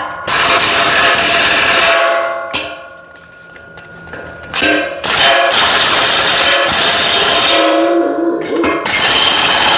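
A 3/4-inch impact wrench hammering high-strength 16 mm bolts tight, in three long runs, the first about 2 s, the others about three seconds each from the middle on. Metal rings faintly in the pauses between runs.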